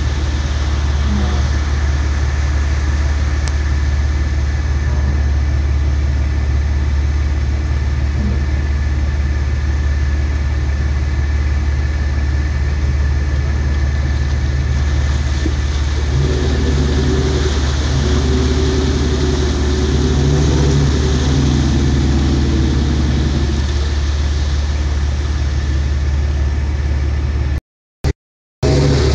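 Off-road Jeeps' engines running and revving as they crawl a muddy trail, over a steady low rumble. A stronger engine note comes in about halfway through and fades after about eight seconds. The sound cuts out briefly near the end.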